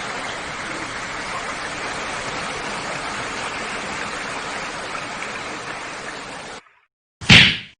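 Steady rush of running water that cuts off suddenly about six and a half seconds in, followed near the end by one short, loud knock.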